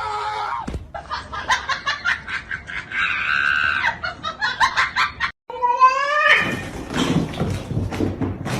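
An animal calling, with a long call rising in pitch about six seconds in, among short clicks and noises.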